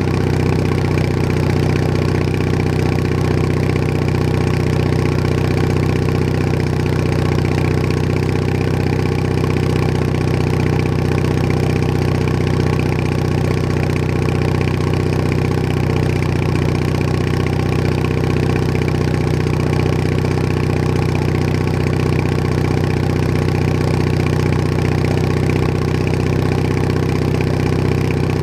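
Bolens HT20 garden tractor engine running steadily at a constant speed, heard from on board.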